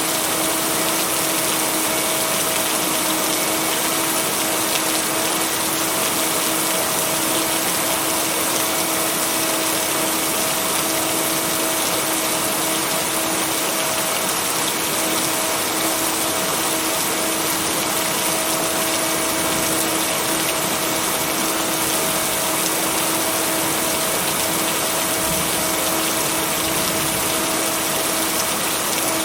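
Steady heavy rain: an even, unbroken hiss with no thunder, and a steady humming tone underneath that comes from the binaural beats mixed into the track.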